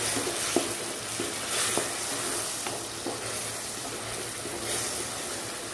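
Ginger, green chilli and garlic paste sizzling in hot butter and ghee with onions in a coated kadhai, stirred by a spatula that scrapes lightly against the pan several times.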